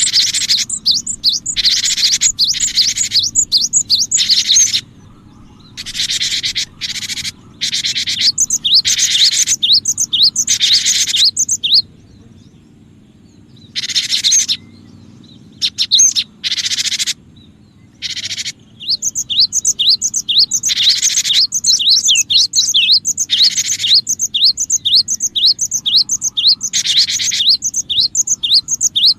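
Cinereous tit (gelatik batu) song: fast series of sharp, high chirps coming in bursts a second or two long, broken by short abrupt gaps, over a steady low hum.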